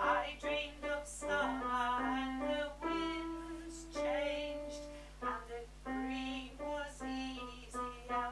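Female voices singing the alto line of a choral song, note by note in a flowing phrase, with piano accompaniment.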